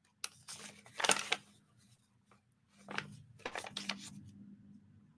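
Paper and card rustling as journal pages and craft supplies are handled, in a few short spells, the loudest about a second in.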